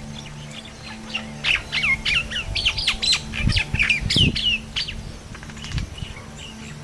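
A flock of common mynas chattering: a dense burst of harsh squawks and whistled chirps for a few seconds, then thinning to scattered calls.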